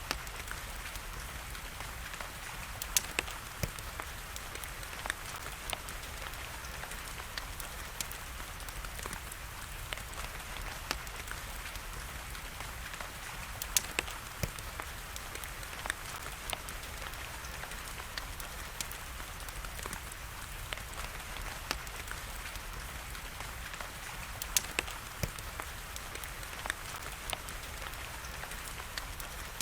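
Wood fire crackling, with irregular sharp pops and snaps over a steady hiss of rain; a few pops stand out louder.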